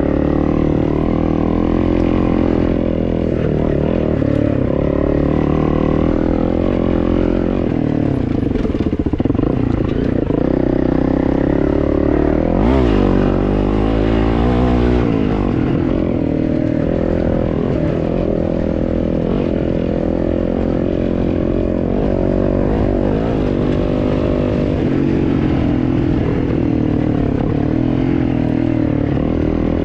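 Dirt bike engine running under constantly changing throttle as it is ridden off-road, the revs rising and falling, with a sharper swing down and back up about halfway through.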